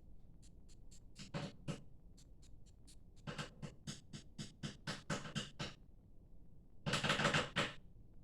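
A run of quick, irregular taps and clicks, several a second, with a louder scraping or rustling burst about seven seconds in.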